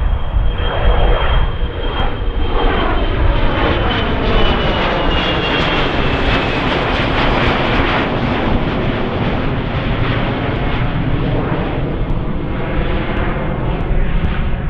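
Jet airliner passing by: engine rush with a high whine that sinks slightly in pitch, swelling toward the middle and falling away near the end, over wind rumble on the microphone.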